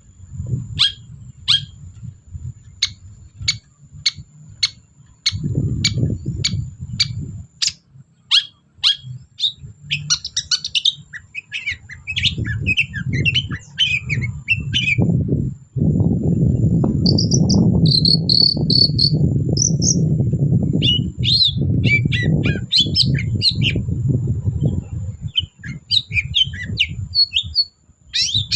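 Long-tailed shrike (cendet) singing: a run of sharp, evenly spaced calls, about two a second, then a fast chattering, warbling stretch. A steady high-pitched tone runs underneath, with a low rumbling noise that is loudest in the middle.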